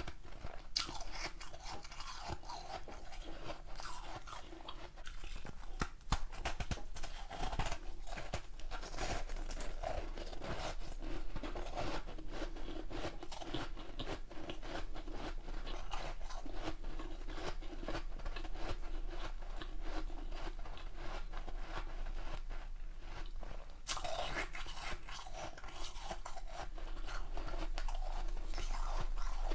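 Close-up crunching and chewing of ice, with continuous crackling bites.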